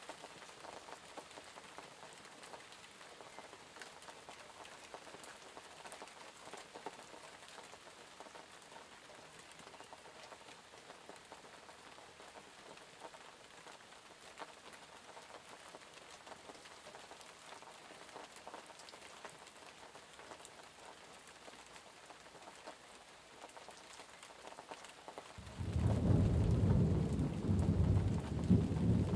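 Steady rain falling and pattering on surfaces; near the end a loud low rumble of thunder breaks in suddenly and keeps rolling.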